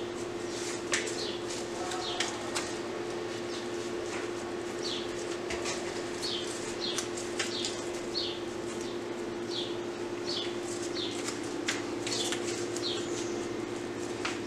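Small birds chirping: short, falling chirps repeated irregularly about once or twice a second, over a steady low hum, with a few sharp clicks.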